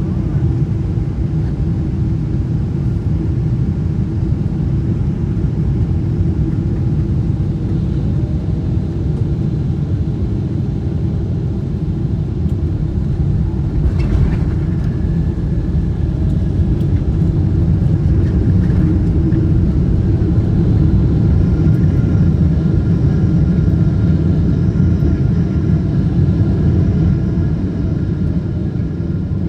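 Cabin noise of a Boeing 777-200LR airliner heard from a seat behind the wing: a steady, loud rumble of its engines and airflow. A brief click comes about halfway, and faint steady whining tones rise out of the rumble in the second half.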